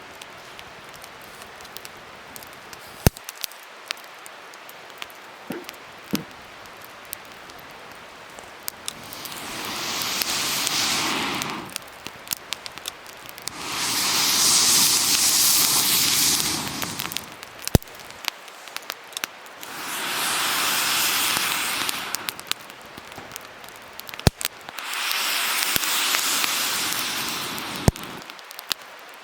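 Wood fire crackling with scattered sharp pops, and four swelling rushes of airy, hissing noise, each about three seconds long, coming roughly every five seconds.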